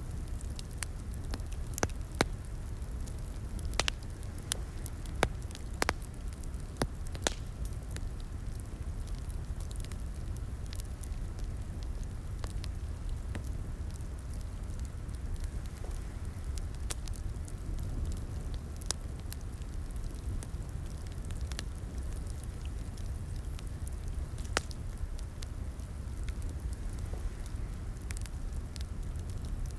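Wood fire crackling in a fireplace: a steady low rumble of burning with scattered sharp pops and snaps, more frequent in the first few seconds.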